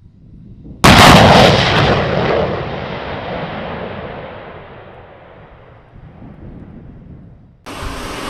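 Loud jet-engine roar from a C-17 Globemaster III's turbofans. It starts abruptly about a second in, then fades over several seconds as its high hiss dies away and the aircraft draws off. Fresh engine noise cuts in again near the end.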